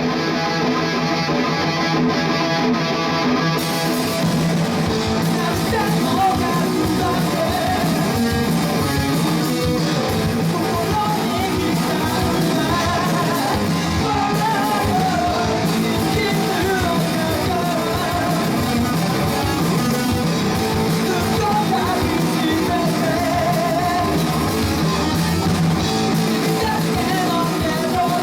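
Rock band music with electric guitar and a singing voice, played loudly and steadily throughout.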